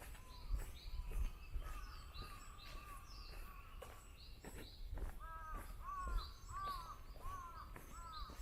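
Birds calling: a series of about six arched, throaty calls about half a second apart in the second half, over scattered higher chirps. Soft footsteps thud underneath.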